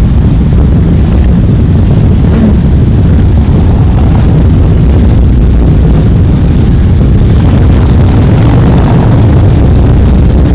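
Many motorcycle engines running close by: a loud, continuous, low engine rumble from a mass of bikes.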